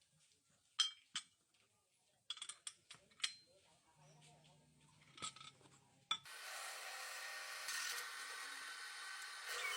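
Hand tools working on metal parts: a few sharp clicks and taps with short scraping strokes. About six seconds in, a steady whirring hiss starts abruptly and keeps going.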